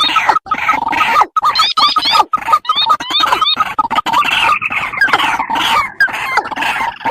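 Recorded calls of waterhens (rails), played as a bird-hunting lure: a rapid, dense series of short repeated calls with upward-gliding notes, several to a second and overlapping.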